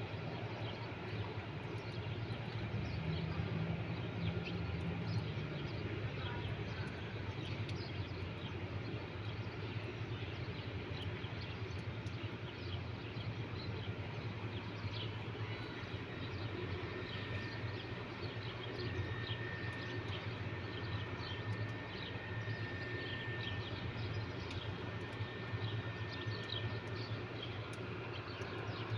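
Outdoor ambience: a steady low rumble with many short high chirps scattered throughout, and a faint steady high tone in the second half.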